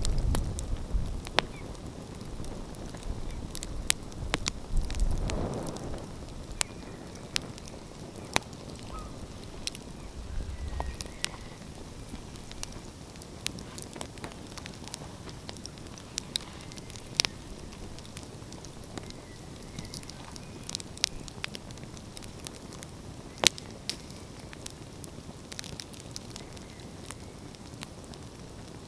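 Wood fire crackling, with sharp, irregular pops scattered over a steady low hiss. A low rumble swells briefly at the start and again about five seconds in.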